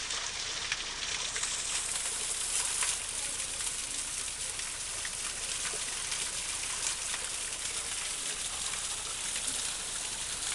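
Waterfall: a steady rush of falling water, mostly high hiss, flecked with small splashes.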